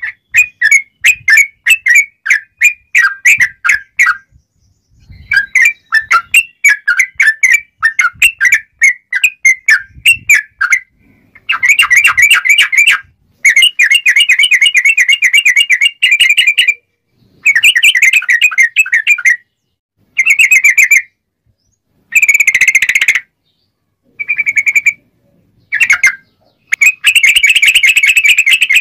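Sooty-headed bulbul (trucuk) singing in the fast, chattering 'ngobra' style. For about the first ten seconds it gives quick runs of sharp repeated notes. After that it gives a string of dense trills, each one to three seconds long, with short pauses between them.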